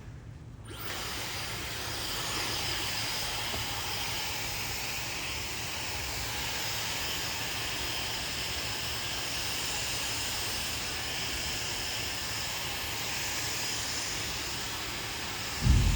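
Handheld hair dryer switched on about a second in and blowing steadily at full power. A brief low thump comes near the end.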